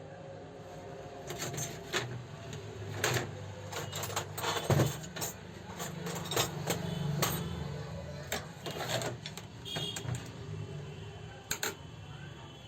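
Irregular clicks and clinks of metal parts and tools on an old Revo 81-3 overlock sewing machine being worked on by hand, over a steady low hum.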